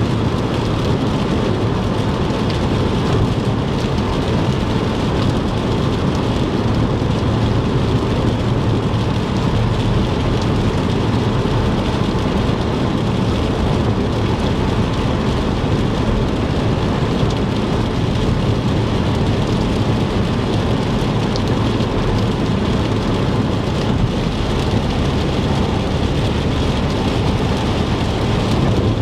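Car driving at highway speed in heavy rain: a steady low rumble of tyres on the wet road, mixed with the hiss and patter of rain.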